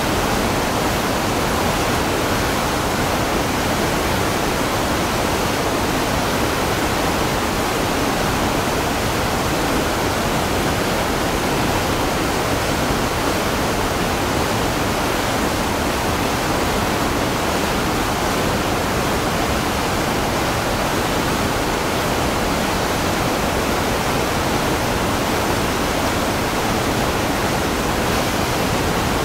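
Waterfall: falling water in a steady, unbroken rush with no change in level.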